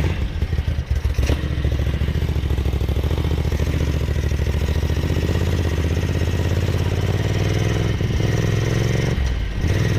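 Ducati 900SS bevel-drive air-cooled 90-degree V-twin idling steadily through Conti silencers, freshly rebuilt and holding a clean idle straight after its first start. The level dips briefly near the end.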